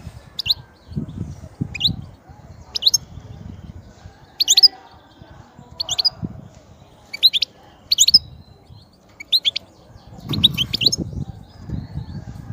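European goldfinch calling and singing in short bursts of sharp, high chirping notes, a cluster roughly every second, with a faint low rumble underneath at times.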